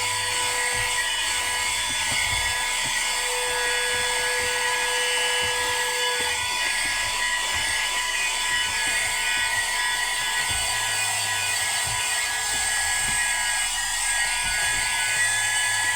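AGARO CV1079 12 V, 110 W handheld car vacuum cleaner running steadily, its small motor giving a continuous high whine over the hiss of the suction airflow.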